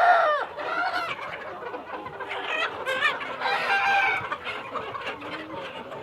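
A flock of Sonali chickens clucking, with young roosters crowing between the clucks and several calls overlapping.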